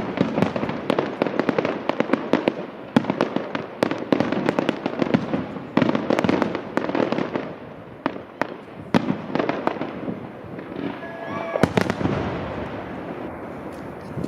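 Fireworks display: a dense run of bangs and crackling from exploding shells, thinning out after about nine seconds, with one loud bang near the end followed by a fading rumble.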